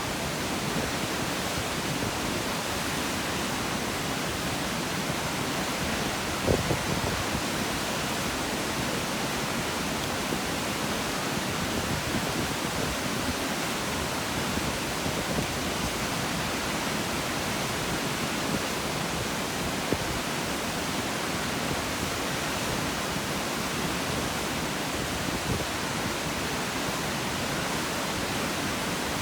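Kegon Falls, a large plunge waterfall, pouring in a steady, dense rush of water noise. There is one brief knock about six and a half seconds in.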